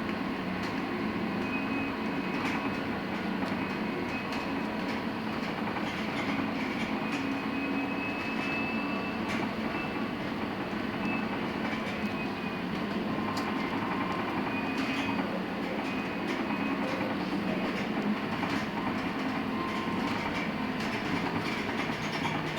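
Cabin of a LiAZ-6274 electric bus under way: the electric drive's whine, its pitch shifting with speed, over steady road and tyre noise, with scattered rattles and clicks.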